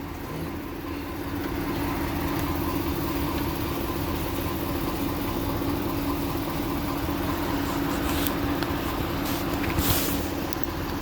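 Box truck's diesel engine idling steadily, with a brief noise about ten seconds in.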